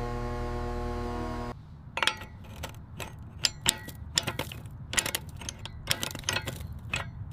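A steady synthesizer-like drone cuts off abruptly about a second and a half in. Irregular sharp metallic clicks and clinks follow, about a dozen, from hand tools and metal parts being handled during wheel removal.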